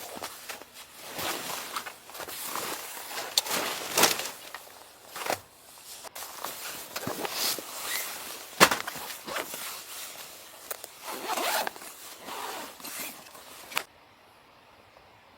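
Irregular rustling and scraping with many sharp knocks, like gear or fabric being handled; the sound cuts off suddenly near the end.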